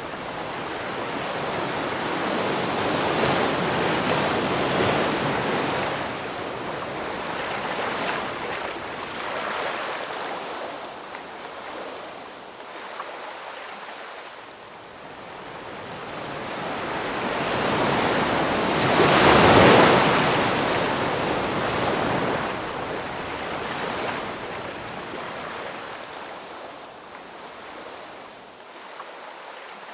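Ocean waves rushing in and washing back in slow swells, with the biggest wave breaking about two-thirds of the way through.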